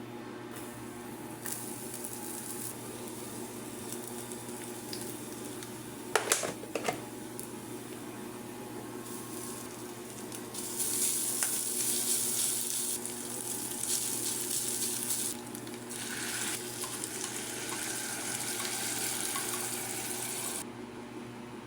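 Household kitchen sounds: a few sharp clinks about six seconds in, then a steady hiss that starts abruptly, breaks off briefly twice and cuts off near the end, over a low steady hum.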